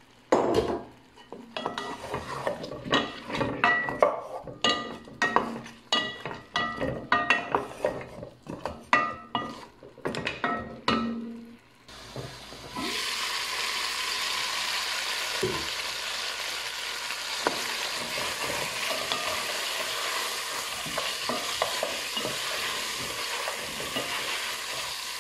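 Whole peeled potatoes being added to a pot of meat: a quick run of knocks and clinks against the pot, some of them ringing. About twelve seconds in it changes suddenly to a steady sizzle as the meat and potatoes fry in the pot, with a few scrapes of a wooden spoon stirring them.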